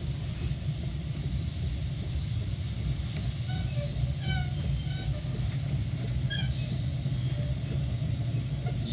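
Metra commuter train running with a steady low rumble, heard while riding aboard. A few faint, short high-pitched tones come through in the middle.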